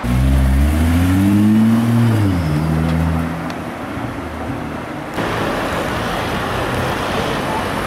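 Sports car engine accelerating hard, its pitch rising for about two seconds, then dropping sharply and holding briefly before fading. About five seconds in it gives way to steady street traffic noise.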